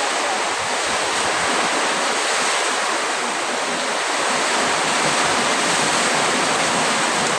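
Heavy storm rain pouring down with wind, a steady dense hiss.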